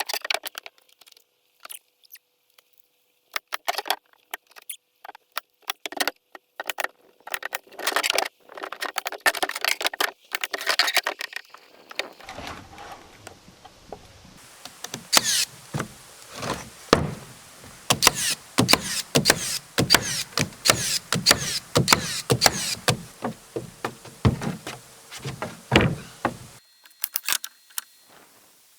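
Hand work on wooden wall framing: a long run of irregular knocks, taps and clatter of lumber and tools, sparse at first, then busier from about halfway through over a steady hiss.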